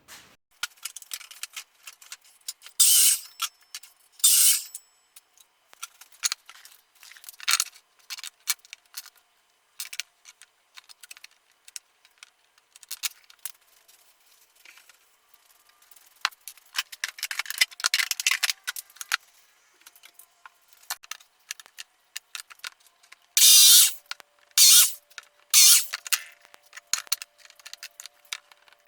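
Hand tools working wood: scattered clicks, taps and light knocks, with a few rasping strokes and, near the end, a run of strong rasping strokes about one a second.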